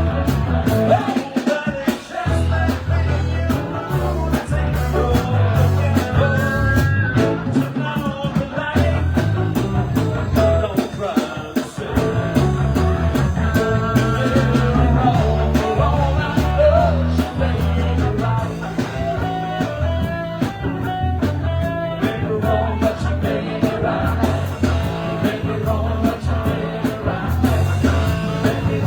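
Live band playing rock music, with singing, guitar, a steady bass line and drums.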